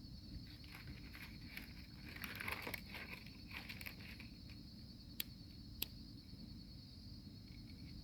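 Crickets chirping steadily. Rustling and crackling come about one to four seconds in, from hands working the kindling. Two sharp clicks of a lighter come about five and six seconds in.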